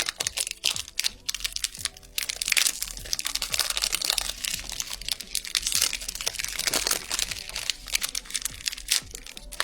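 Plastic packaging of cat treats crinkling and rustling as it is handled and opened, with a dense crackle of small clicks, busier from about two seconds in.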